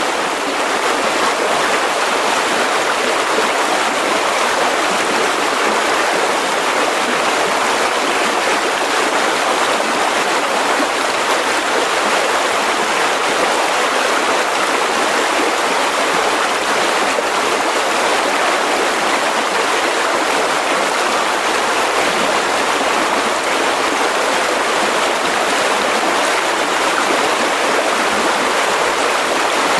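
Mountain river rushing over rocks: a steady, even roar of running water.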